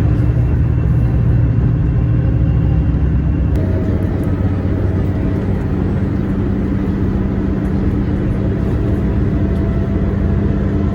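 Steady low rumble and hum of a running vehicle, with an abrupt change in its tone about three and a half seconds in.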